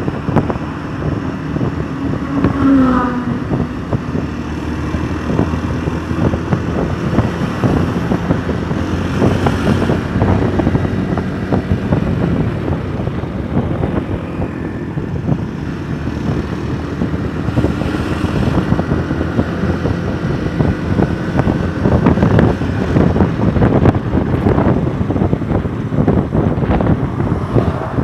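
A vehicle running on the move, its steady engine and road noise mixed with wind buffeting the microphone.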